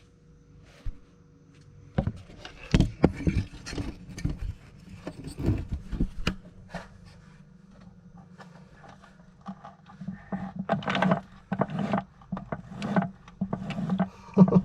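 Irregular metal scraping, clicking and knocking as the shafts of a stripped-out T850 manual transmission are turned by hand and its internals handled, in two bouts with a lull between. The transmission's fourth gear has lost all its teeth.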